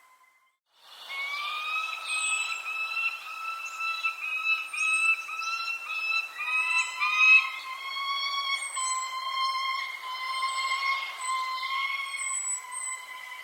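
Birds chirping: short, high, falling chirps repeated every second or so over a long, steady whistling tone that steps down slightly in pitch about halfway through. The sound fades in after a second of silence at the start.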